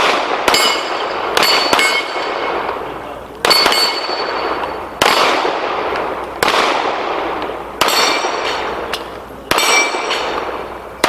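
Pistol shots fired at steel targets, one every second or so at an uneven pace, each followed by a long echoing tail. The struck steel plates ring with a high metallic tone after several of the hits.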